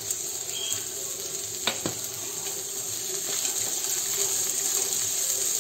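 Chopped cabbage, carrot and green peas sizzling in a wok over high flame as a wooden spatula stirs them, with two light spatula taps just under two seconds in.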